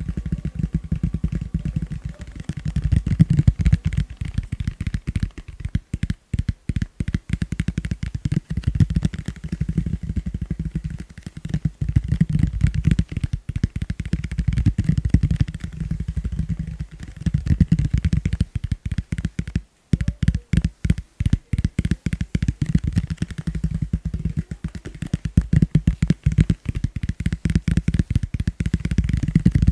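Fast, gentle tapping on a plastic bowl: a dense, continuous run of quick low taps, with short pauses about six seconds in and again about twenty seconds in.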